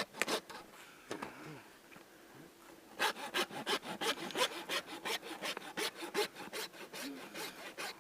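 Hand saw cutting through the moose carcass with quick back-and-forth strokes, about four a second, starting about three seconds in after a few light knocks.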